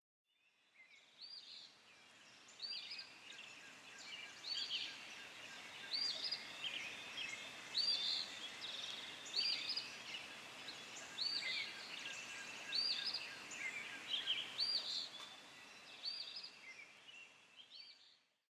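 Birdsong: a bird repeats a short, high, arched call about every one to two seconds while other birds chirp, over a steady outdoor hiss. The sound fades in at the start and fades out near the end.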